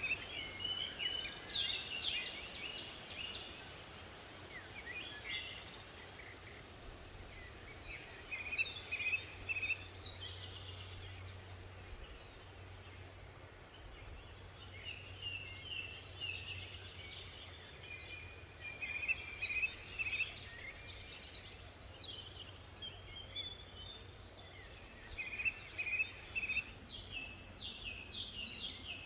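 Wild songbirds singing in a forest: clusters of short, quick chirping notes that come and go every few seconds, over a steady thin high hum.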